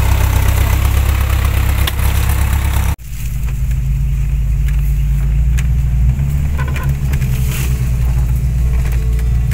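Off-road 4x4 engine running low and steady. The sound breaks off abruptly about three seconds in and picks up again as engine noise heard from inside a vehicle's cab, moving slowly along the trail.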